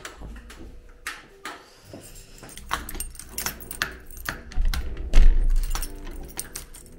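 Keys jangling amid a series of small clicks and knocks, with a heavier low thudding rumble about five seconds in.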